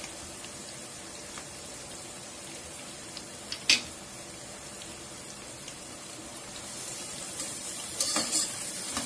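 Sliced onions with ginger-garlic paste and turmeric sizzling steadily in hot oil in a nonstick pot. A single sharp clink of the steel slotted spoon against the pot comes about four seconds in. Near the end the sizzling grows louder, with clatter from the spoon stirring the mixture.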